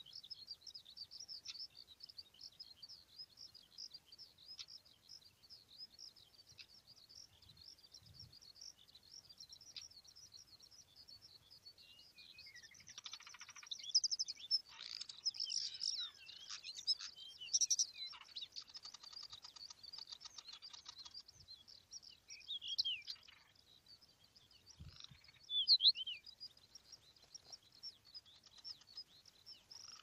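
Birds chirping and singing: a steady high twittering throughout, with louder, sharper calls and a short rapid buzzy phrase about midway, then a few down-slurred whistled notes.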